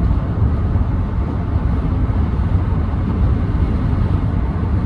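Steady road and engine noise inside the cab of a 2014 Ram 1500 pickup cruising at highway speed, a low even rumble with no breaks.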